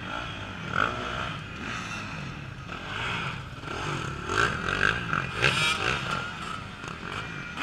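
Off-road racing motorcycle engines revving up and down in bursts, with overlapping rising and falling engine pitches, loudest from about four to six seconds in, as the bikes are worked through the log obstacle.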